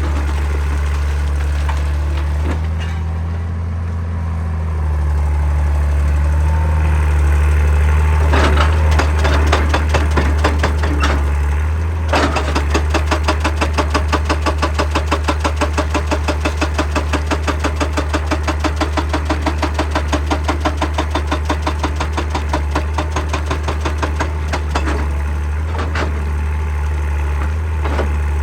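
Excavator diesel engine running steadily with a few sharp metal knocks. About twelve seconds in, a hydraulic breaker starts hammering rock in rapid, even blows about four a second, then stops after about twelve seconds.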